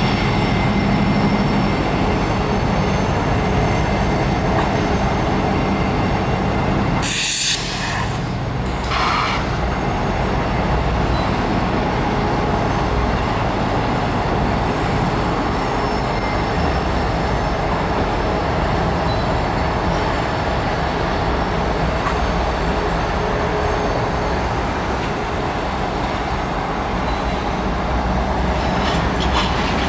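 EMD SD50-3 diesel locomotive, with its 16-cylinder two-stroke EMD 645 engine, running steadily as it leads a freight train slowly over a steel trestle, wheels rolling on the rails. Two short hisses about seven and nine seconds in.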